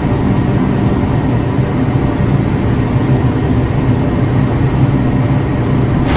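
R142 subway train in the station, running with a steady low rumble and hum.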